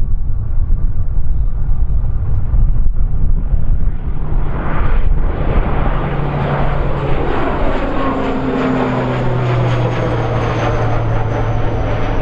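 Wind buffeting the microphone, then about four seconds in an airliner's engines grow louder as it passes on takeoff, with steady low drones and a high whine that falls slightly near the end.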